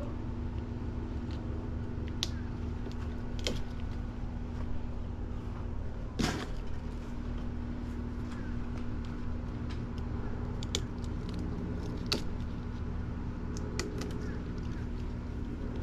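Scattered sharp clicks and snaps of sorrel being picked by hand off the bush, the loudest about six seconds in, over a steady low hum.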